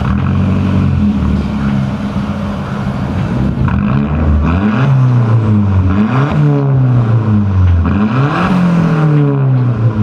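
Volkswagen Golf MK4 1.8T turbocharged four-cylinder running through a straight-through exhaust with the muffler and resonator removed: a steady idle for the first few seconds, then revved several times, the pitch climbing and falling back each time.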